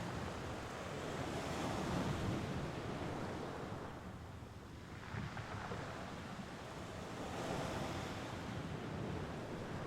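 Mediterranean Sea waves washing onto the shore. There is a steady rush that swells twice, about two seconds in and again near eight seconds, as the waves surge in.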